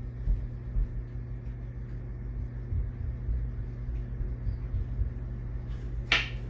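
Ceiling fan parts being handled: one sharp knock about six seconds in, over a steady low hum.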